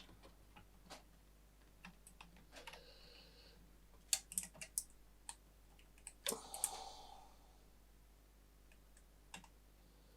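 Faint, scattered sharp clicks and taps of small parts being handled while a loose contact in an oscilloscope is worked back into place. A quick run of clicks comes about four seconds in, and another click with a brief ring comes about six seconds in.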